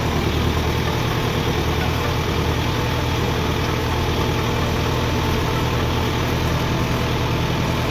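Kubota tractor's diesel engine idling steadily, an even low hum with no revving.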